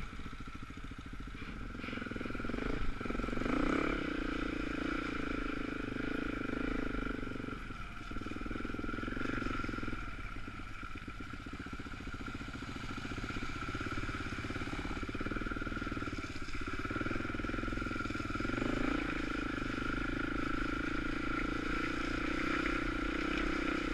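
Dirt bike engine running on a green lane, its note rising and falling as the throttle is opened and shut, with brief drops every few seconds.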